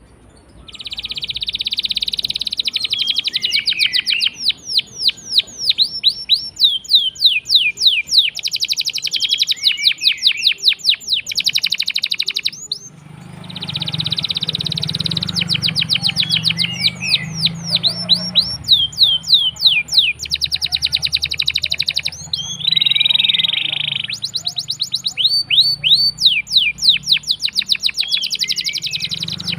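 Domestic canary singing a long, nearly unbroken song: long rapid rolling trills alternating with quick runs of downward-sweeping whistled notes, with only brief pauses. A low steady hum sits underneath from about halfway on.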